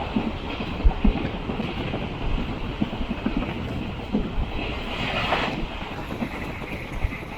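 Diesel-electric multiple unit (DEMU) train running along the line, its wheels rumbling and clattering over the rails with scattered knocks. A brief louder rushing swell comes about five seconds in.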